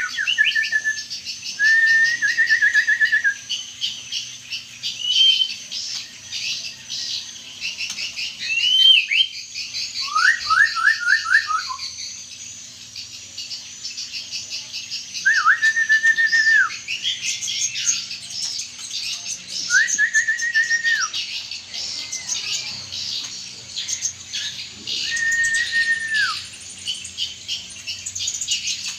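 Songbirds singing: continuous rapid high twittering, broken every few seconds by a louder whistled phrase. Each phrase is a held note of a second or so, some with a quick trill, some ending in a falling sweep.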